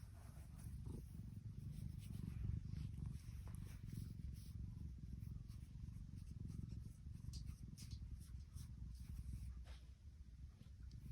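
Tuxedo cat purring, a steady low rumble close to the microphone, with a few faint clicks.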